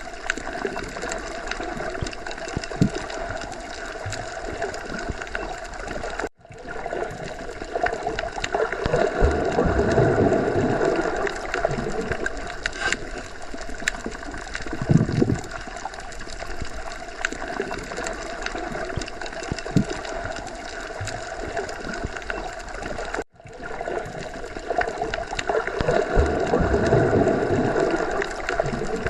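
Underwater ocean ambience: a steady watery wash with gurgling and a low rumble that swells and fades twice. It cuts out for an instant twice, about 17 seconds apart, where the recording loops.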